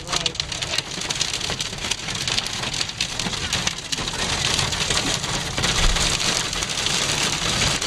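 Heavy rain pelting a car's windshield and roof, heard from inside the vehicle: a dense patter of drops over a steady low rumble.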